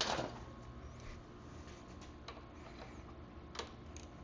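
Hand tools working a seized fastener: a short knock at the start, then a few faint metallic clicks over a low steady background hum.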